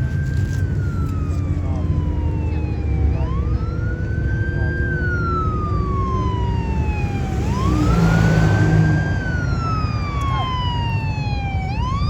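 Emergency-vehicle siren wailing, each cycle a quick rise and a slow fall, repeating about every four seconds over a steady low rumble of traffic. A vehicle passes louder about eight seconds in.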